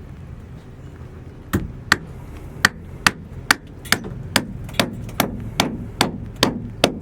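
Hammering: a steady run of sharp hammer blows, a little over two a second, starting about a second and a half in.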